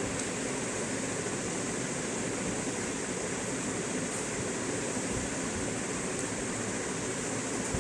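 Steady rushing noise at an even level throughout, with no distinct bird calls standing out.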